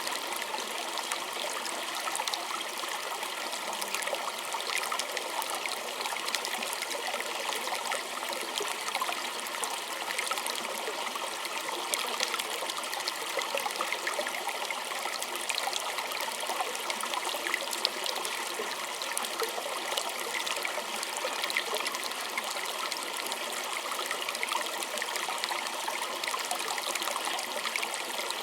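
Small stream trickling and babbling steadily, with fine splashes and drips of water over stones.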